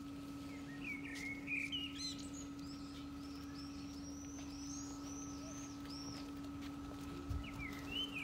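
A songbird singing: a few short chirps, then a quick run of repeated high, arching notes lasting about three seconds, and more chirps near the end. A steady hum runs underneath.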